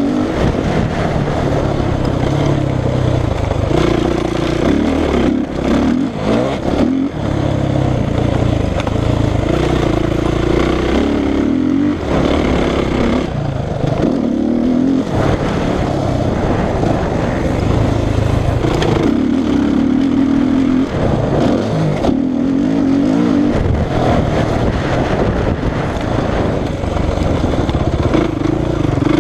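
450 cc four-stroke motocross bike engine being ridden hard, its pitch climbing and dropping again and again as the throttle is opened and shut and it changes gear.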